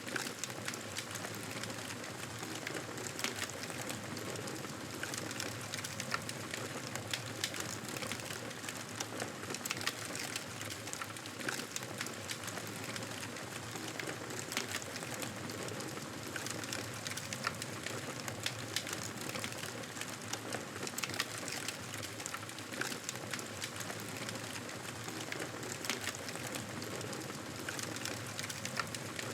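Campfire crackling: frequent small, irregular pops and snaps of burning wood over a steady hiss.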